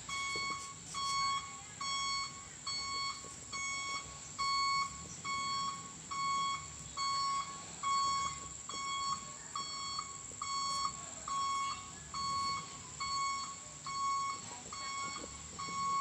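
An electronic alarm beeping over and over: a single-pitched, high beep about one and a half times a second, starting at the very beginning and keeping on without a break.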